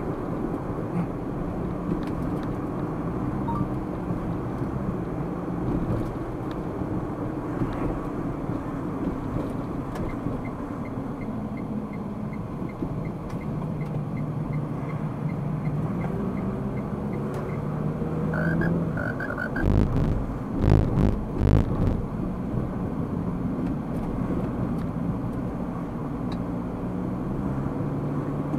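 Steady car engine and tyre noise on a city drive, recorded by a dashcam. A run of faint regular ticks, about two a second, is followed by a brief beep and then several loud low thumps about two-thirds of the way in.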